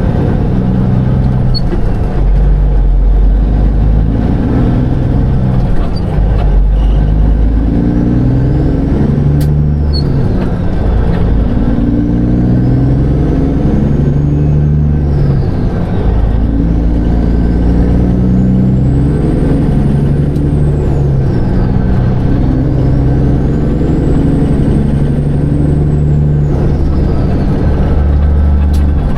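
Semi truck's diesel engine and road noise at driving speed, a steady low drone, with a changing pattern of low stepped tones over it.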